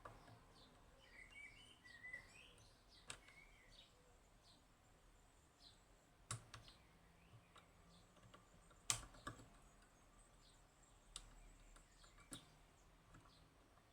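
Sparse, faint metallic clicks from a lever-lock pick and tensioner working the levers inside a Union G110 five-lever lock, the loudest a sharp click about nine seconds in. Faint bird chirps in the background during the first few seconds.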